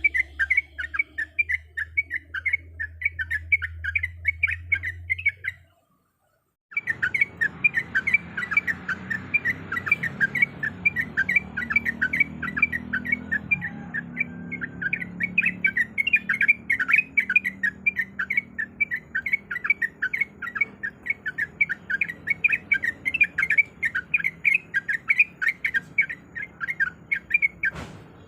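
Yellow-vented bulbul (trucuk) singing a long, fast chattering run of short repeated notes. The song breaks off for about a second near six seconds in, then carries on.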